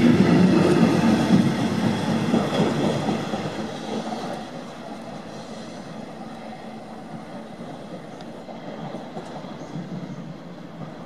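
A regional train of double-deck coaches hauled by a DB class 111 electric locomotive rolling out over the station tracks. Close and loud at first, the rolling of the coach wheels fades over the first four seconds or so as the train draws away, leaving a fainter steady rumble.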